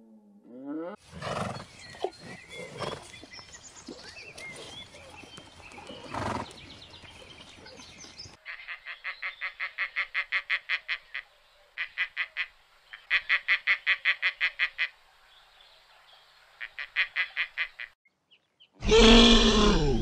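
A rough, noisy stretch with a few louder calls, then a marabou stork clattering its bill in rapid runs of about nine strokes a second, several runs with short breaks. Near the end a Highland cow lows loudly.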